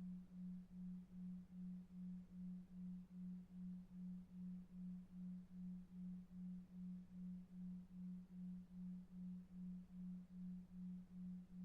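A low pure tone pulsing evenly about two and a half times a second, a 2.5 Hz delta-wave sleep tone, over faint brown noise.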